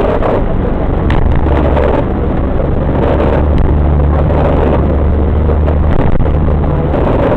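Car driving on a freeway, heard from inside the cabin: steady engine and road noise with a low hum.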